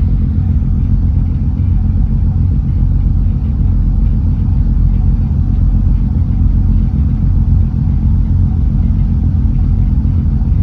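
An engine running steadily: a loud, even, low drone that does not change.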